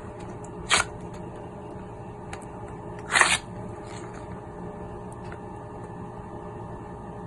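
Slime being kneaded by hand: two short crackly squishes, one about a second in and a longer one around three seconds in, with faint clicks, over a steady low hum.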